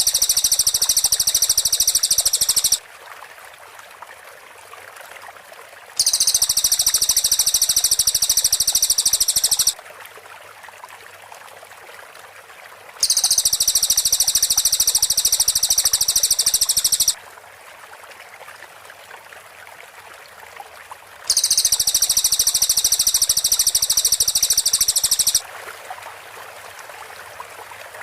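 Cililin (velvet-fronted nuthatch) giving four long, very rapid, high-pitched trills of tightly packed notes, each lasting about four seconds with pauses of about three seconds between them. A stream trickles underneath.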